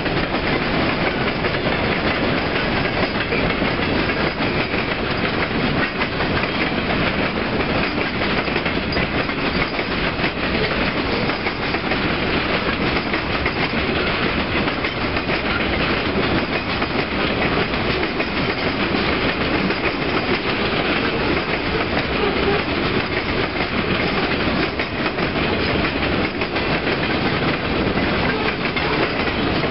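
Freight train of hopper cars and boxcars rolling past, its steel wheels running over the rails in a steady, unbroken noise.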